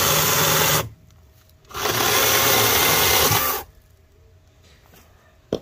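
Greenworks Commercial GS110 battery top-handle chainsaw running in two bursts of about two seconds each. The first cuts off suddenly within the first second, and the second starts a second later and stops just before the four-second mark. A short click comes near the end.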